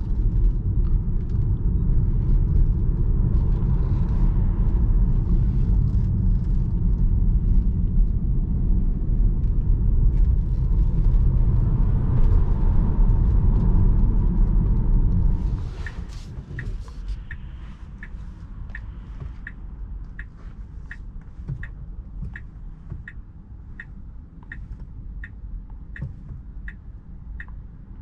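Tyre and road rumble inside the cabin of a 2021 Tesla Model 3 Performance electric car driving on a country road, with no engine note. About fifteen seconds in the rumble drops off sharply as the car slows, and a regular ticking begins, about one and a half ticks a second, like the turn-signal indicator.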